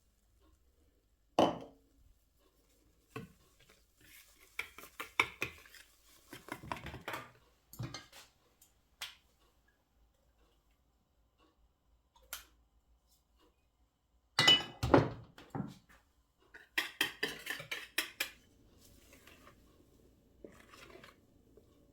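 Dishes and cutlery clattering and clinking in a series of separate knocks. The loudest knocks come about a second and a half in and in a cluster around fourteen to fifteen seconds, with runs of lighter clinks around five to eight seconds and seventeen to eighteen seconds.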